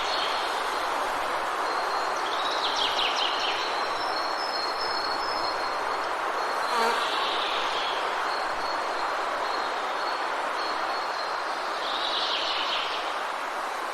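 Forest ambience: a steady hiss of rain falling in the trees, with a thin, high insect drone that comes and goes. Short bird calls break in three times.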